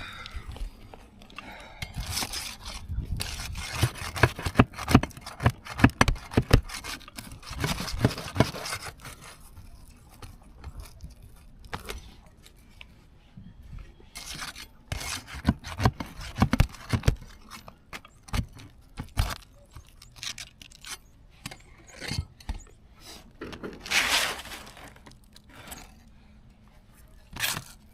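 Asphalt roof shingles being worked loose and torn out: bursts of scraping, crinkling and sharp clicks, heaviest in the first third and again about halfway, with a longer scrape near the end.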